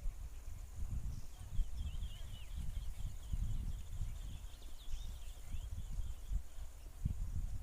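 Small birds chirping in a quick twittering run for most of the clip, over a constant low rumble like wind on the microphone.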